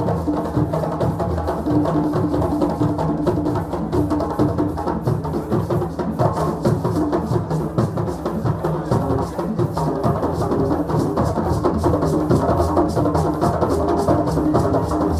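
West African drums played together at a celebration, a fast, steady, unbroken rhythm.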